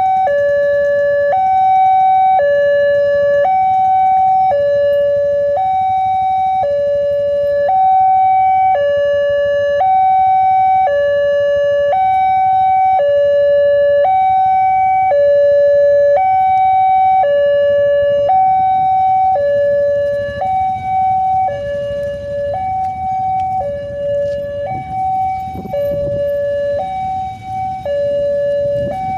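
Railway level-crossing warning alarm sounding a steady electronic two-tone signal, alternating between a higher and a lower note about once a second, to warn that a train is approaching. A low rumble runs underneath and grows stronger in the last ten seconds.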